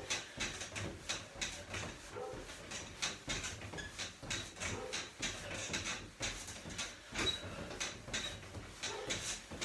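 Small children's trampoline being bounced on in a steady rhythm, about two bounces a second, its frame and springs creaking with each landing along with a low thud.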